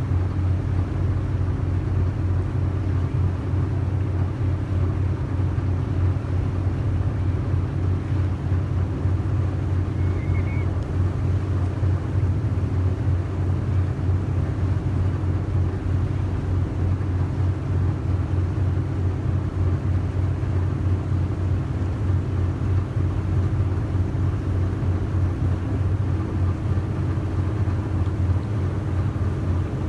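Yakatabune's engine running with a steady low drone.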